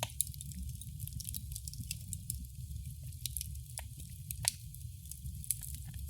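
Wood fire crackling in a fireplace: a steady low rumble under frequent small pops and snaps, with a few louder snaps scattered through.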